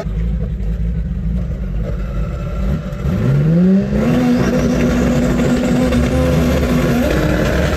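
Corvette V8 heard from inside the cabin: a low idle rumble, then revved up about three seconds in and held at a steady raised speed, stepping slightly higher near the end. The driver is holding revs at the drag-strip start line before the launch.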